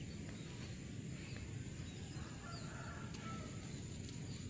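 Faint, short bird calls scattered over a steady low rumble of outdoor ambience.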